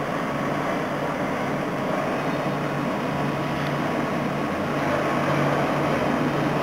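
Tram running past with a steady rumble and a low hum, growing a little louder near the end.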